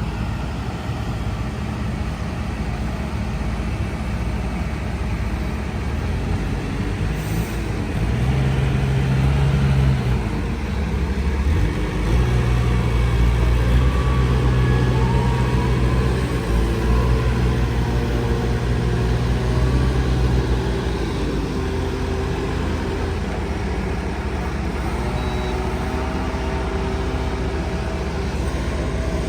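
Heavy machinery engine running steadily, working harder for about twelve seconds in the middle before settling back.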